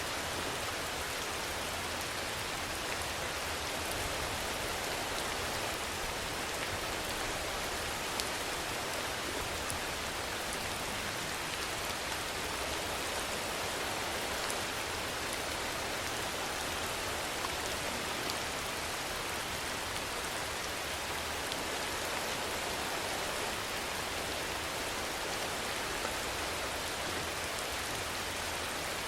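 Steady rainfall: an even hiss of rain with occasional sharper single drop ticks, holding at one level throughout.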